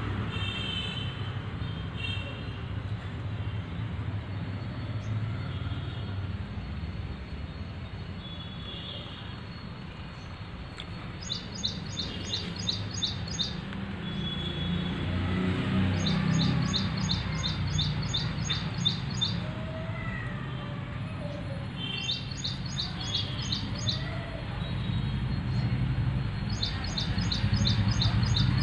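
Birds chirping: a bird repeats quick high notes, about five a second, in four runs of two to three seconds each, with a few scattered chirps near the start. A steady low rumble lies underneath.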